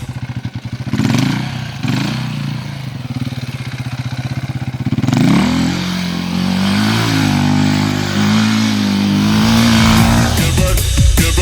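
Motorcycle engine running with a fast, even pulse, then revved about five seconds in, its pitch rising and wavering as it pulls away.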